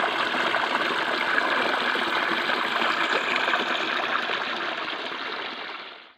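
Clear stream water flowing and babbling steadily over stones, fading out in the last second.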